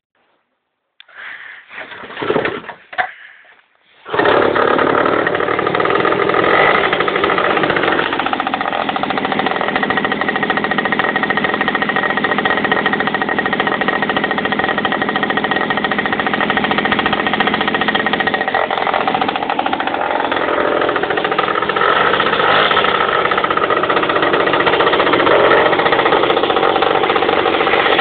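Verkhovyna 6 moped's two-stroke engine being started, catching about four seconds in and then running steadily with a high whistle from the ignition side of the engine, whose cause is unknown.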